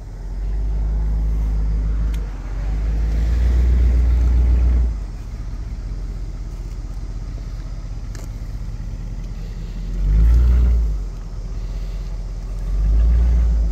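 1957 Cadillac's V8 engine running at a low idle, swelling four times as the throttle is fed briefly, while the car creeps up into an enclosed trailer under light load.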